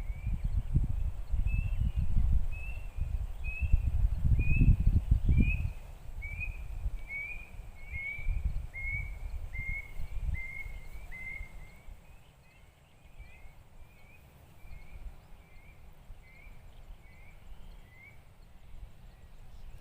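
A single bird repeats a short, clear chirp about one and a half times a second in a long, even series that grows fainter after about twelve seconds. A low rumble, like wind on the microphone, is loudest in the first six seconds.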